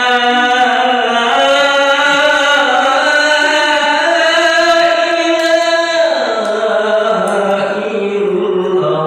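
A solo voice singing in a chant-like style, holding long steady notes; the pitch slides down about six seconds in and then settles on a lower held note.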